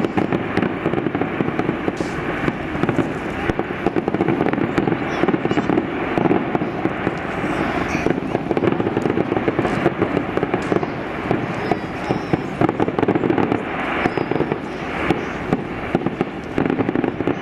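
Aerial fireworks going off in a steady barrage of bangs and crackle, with many sharp reports close together throughout.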